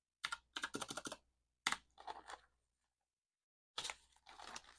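Paper banknotes being handled: several short bursts of crisp rustling and flicking, with gaps in between.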